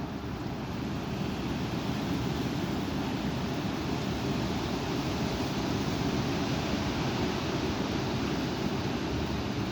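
Strong wind blowing, a steady rushing noise that grows a little louder about a second in.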